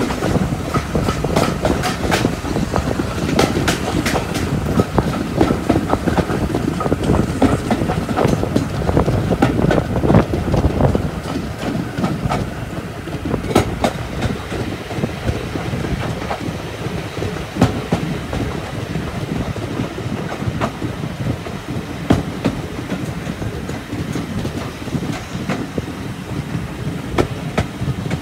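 Railway carriage rolling along the track, heard from an open coach window: a steady rumble of the wheels with irregular sharp clicks as they pass over rail joints. It is louder for the first ten seconds or so, then eases a little.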